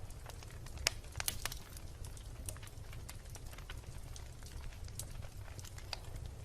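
Wood bonfire burning, with sharp irregular crackles and pops over a low steady rumble; a quick cluster of louder pops comes about a second in.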